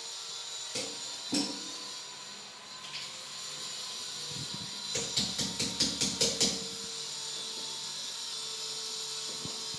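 Quick runs of sharp clicks from the controls of a shower panel being worked: two single clicks about a second in, then a rapid run of about seven clicks about halfway through, over a faint steady hiss.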